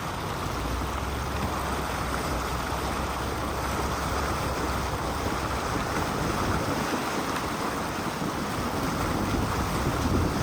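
Steady rushing noise with a low rumble: a vehicle moving along an off-road trail, with wind buffeting the microphone.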